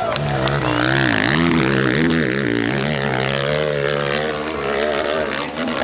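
Dirt bike engine revving hard, its pitch dipping and rising several times with the throttle, then holding steady at high revs.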